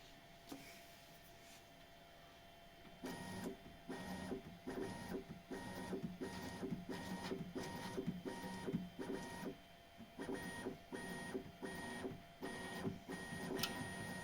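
Bambu Lab X1 Carbon's bed motors driving the bed up and down in short repeated moves. They start about three seconds in and come about one and a half times a second, each a whining motor tone. The squeak from the rubber belt-tensioner roller is now almost gone after the roller was lubricated with soap.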